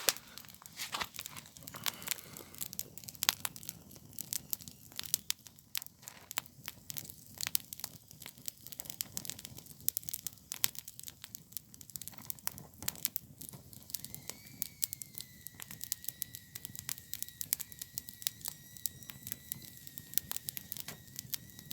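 Campfire crackling with many sharp pops. About two-thirds of the way in, a thin high whistle starts, rises slightly and then holds steady: steam escaping from a rotten apple baking in the fire as it heats.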